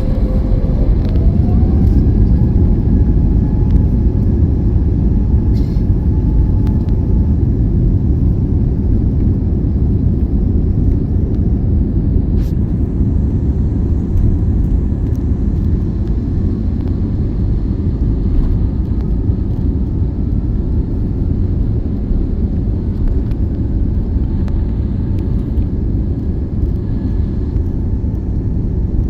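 Airplane taking off: a loud, steady, heavy rumble of engines and rolling, with a whine that rises in pitch in the first two seconds.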